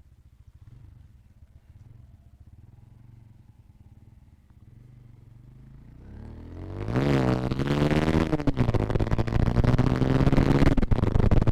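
Motorcycle engine, faint and low at first, then revving up loudly about two-thirds of the way in, rising in pitch before settling into a steady run.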